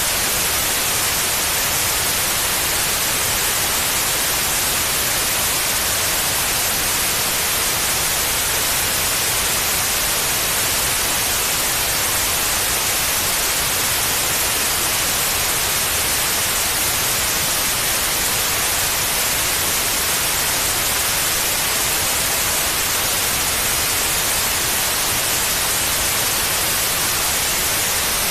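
Steady white noise for lulling a baby to sleep: an even, unbroken hiss, strongest in the high frequencies.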